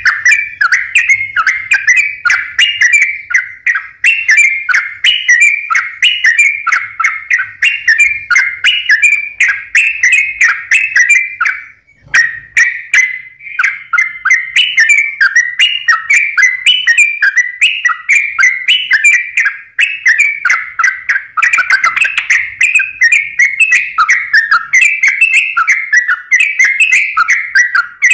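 Yellow-vented bulbul (trucukan) singing vigorously without let-up: a fast stream of repeated bubbly chirping phrases, many falling in pitch, with a brief pause about twelve seconds in.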